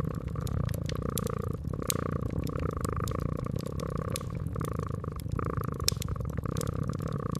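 Cat purring steadily in slow breathing cycles, with a wood fire crackling: sharp pops and snaps scattered over the purr.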